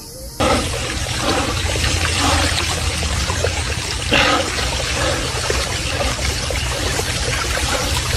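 Loud rushing water with a low rumble underneath, cutting in suddenly about half a second in.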